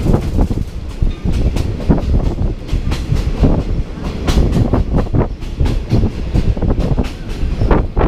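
Passenger train running along the track, heard from on board: a loud, steady low rumble with a stream of irregular clacks and knocks from the wheels over the rails.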